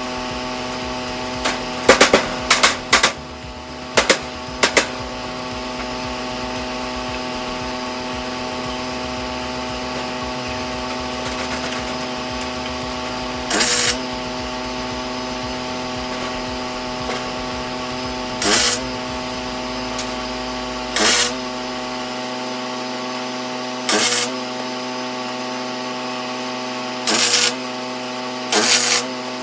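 Aluminum being tack-welded: about ten short welding bursts, each under a second, a quick cluster of them near the start and then one every few seconds. A steady electrical hum runs underneath.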